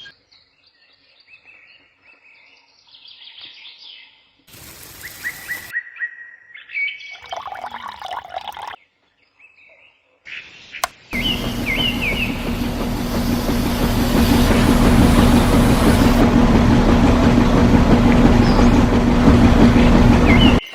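Small birds chirping. About eleven seconds in, a loud, steady hum with hiss starts and runs on, like a small motor running.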